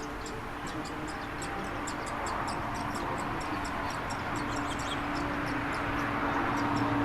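Nestling birds in a nest cheeping with rapid, high-pitched begging calls. A steady low hum grows louder under them toward the end.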